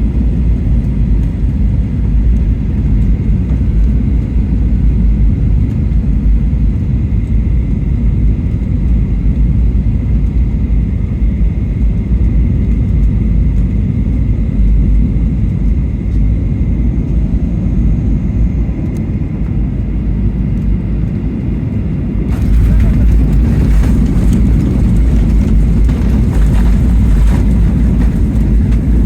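Boeing 737-800 cabin noise: steady low engine and airflow rumble on final approach. About 22 seconds in it jumps suddenly to a louder rushing roar, as at touchdown and the landing roll.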